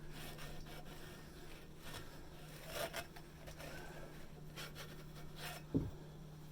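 Paper towels rubbing and scraping inside a rusty exhaust pipe end, wiping out rust and grit, with a short thud near the end over a steady low hum.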